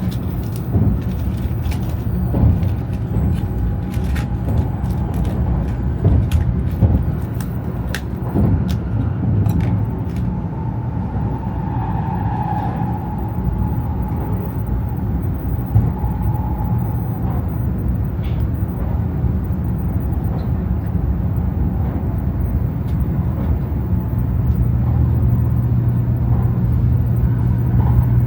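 Shinkansen bullet train running, a steady low rumble with scattered sharp clicks and knocks. A faint whine rises and fades in the middle, and a steadier low hum swells near the end.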